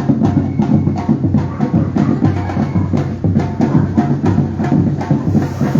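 Batucada street percussion ensemble drumming a steady, driving rhythm of many drums together.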